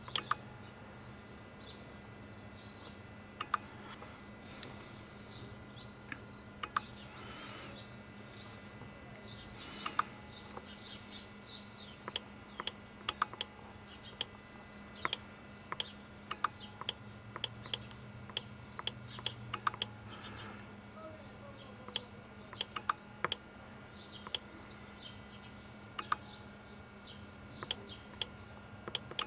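Computer keyboard typing and mouse clicks, in irregular sharp clicks, over a steady low electrical hum.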